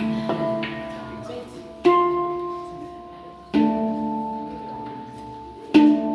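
Handpan played with the fingers: single notes struck a second or two apart, each ringing on in a long bell-like decay, several notes sounding together.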